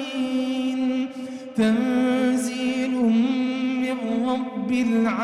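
Male voice chanting Quran recitation in melodic tajwid style, drawing out long held notes with small ornamental pitch turns. A brief break for breath comes about one and a half seconds in.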